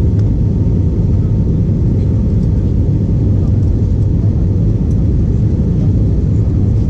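Steady, low cabin noise of an Airbus A320-232 airliner: engine and airflow noise heard from inside the passenger cabin, unbroken throughout.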